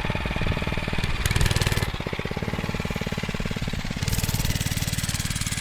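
Motovox pit bike's small single-cylinder engine running as the bike is ridden, with a rapid, even firing beat.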